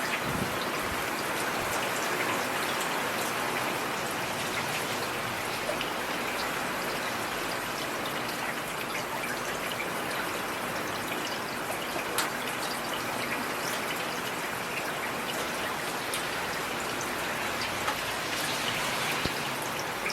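Heavy rain falling steadily, a dense even hiss of drops with scattered sharper drop ticks on a surface.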